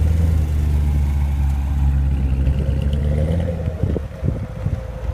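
2014 Corvette Stingray's 6.2-litre LT1 V8 running through its valved exhaust, a loud, deep, steady drone. The drone drops away about four seconds in, leaving a few scattered clicks.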